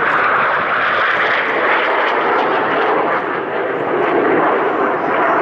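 Northrop F-5E Tiger II jet fighters of a display team in flight, their jet engines giving a loud, steady roar.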